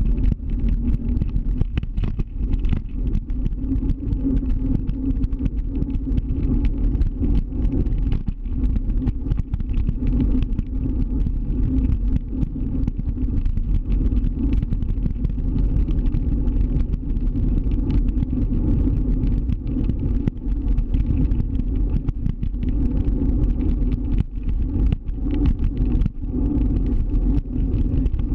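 Scooter riding along city streets: a steady low rumble with a constant hum, mixed with many small clicks and knocks.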